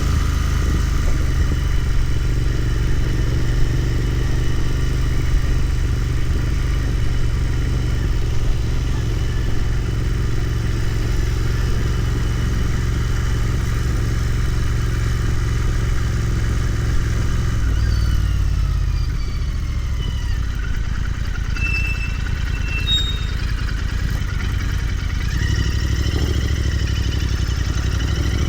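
Royal Enfield Continental GT 650's parallel-twin engine running under way, with a falling engine note about two-thirds of the way through as the bike slows, then rising again near the end as it picks up speed.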